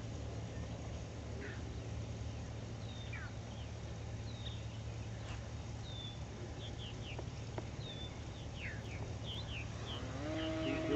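Birds chirping repeatedly, each call a short downward-sweeping note, over a steady low background hum. A voice starts near the end.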